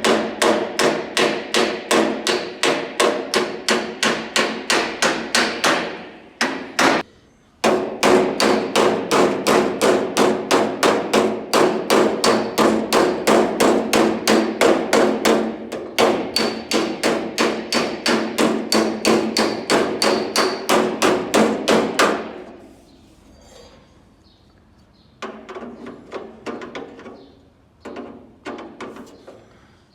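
Body hammer striking a dented steel car door edge in a steady rhythm of about three blows a second, each with a metallic ring: hammer-and-dolly dent work straightening the door's edge. The hammering breaks briefly about six seconds in, stops about 22 seconds in, and comes back as lighter, scattered taps near the end.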